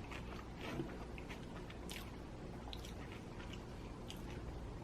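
Faint chewing of a mouthful of pizza, with scattered soft, wet mouth clicks over a low room hum.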